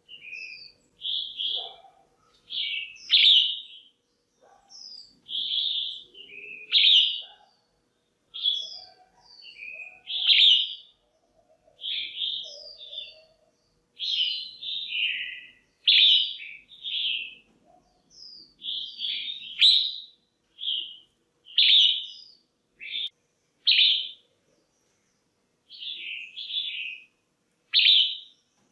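Female red-whiskered bulbul calling: short, bright chirping phrases repeated about once a second with brief pauses between them. This is the female call used to excite a male bulbul or to pair birds.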